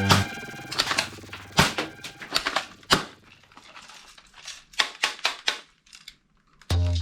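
Toy gun being handled: a run of sharp, irregular plastic clicks and clacks. Background music stops just after the start and comes back near the end.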